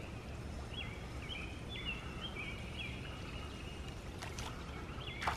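Quiet outdoor background at a pond: a bird sings a short chirping phrase over and over, and a sharper sound comes right at the end.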